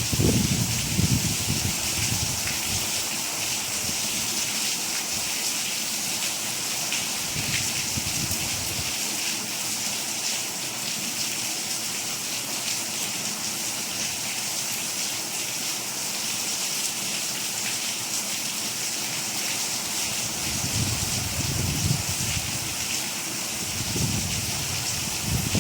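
Steady rain falling, a dense even hiss, with a few brief low rumbles near the start and again near the end.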